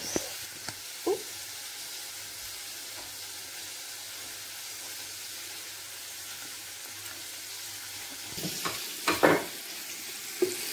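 Chicken pieces deep-frying in hot oil, a steady sizzle. Near the end there are a few louder knocks.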